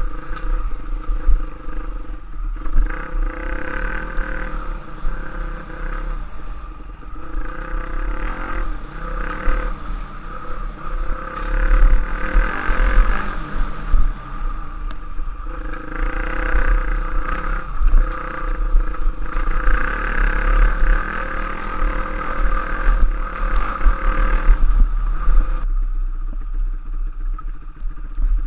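Enduro trail motorcycle engine running and revving up and down, its pitch rising and falling with the throttle, with clatter from the bike over rough ground.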